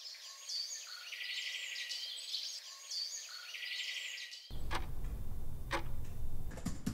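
Birdsong ambience: a bird's chirping phrase, heard twice about two seconds apart over a faint outdoor hiss. About four and a half seconds in it gives way to a low room background with a few sharp clicks near the end.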